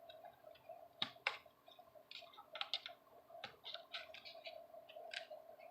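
Faint scattered clicks and taps of small laptop parts being handled as the memory module's retaining clips are pushed aside and the RAM stick is pulled out, with two sharper clicks about a second in. A faint steady hum runs underneath.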